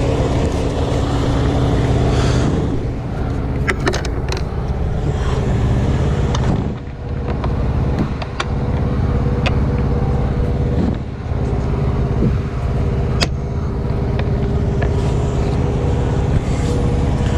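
Steady drone of an idling truck engine, with a few sharp clicks and knocks from handling the air filter housing.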